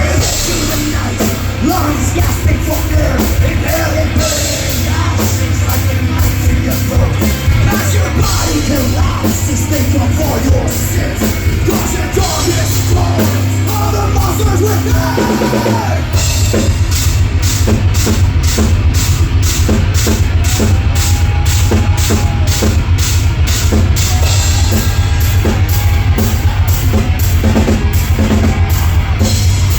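Live heavy rock band playing loud: distorted electric guitars, bass and a drum kit. About halfway through, the drums change to a steady, fast, driving beat.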